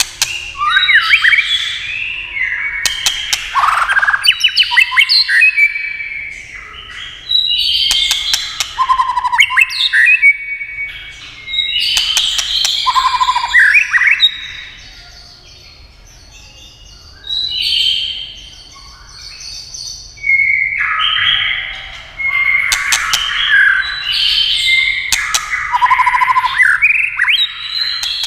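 White-rumped shama singing in bursts of varied, whistled phrases mixed with sharp clicking notes, with short pauses between bursts. This is the shama's excited call-and-song used as a lure to stir other shamas to sing.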